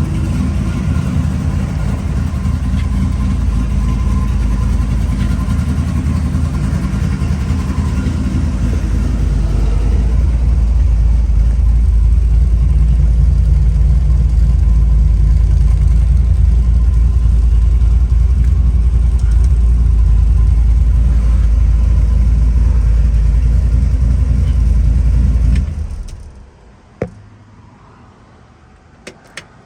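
1955 Chevrolet Bel Air's engine running steadily with a deep rumble, then stopping abruptly near the end, followed by a few faint clicks.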